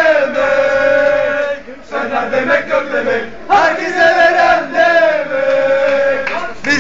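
Stadium crowd of male football supporters chanting in unison, singing long drawn-out phrases with short breaks between them.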